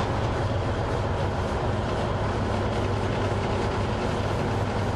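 A train running: a steady low rumble with a constant hum.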